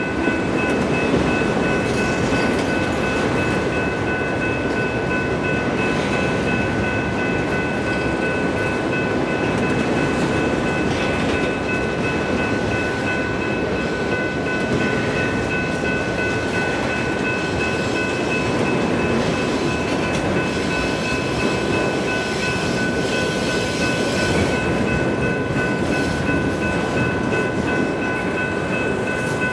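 Freight train of autorack cars rolling past: a steady rumble and clatter of steel wheels on rail, with a high-pitched whine held at one pitch throughout.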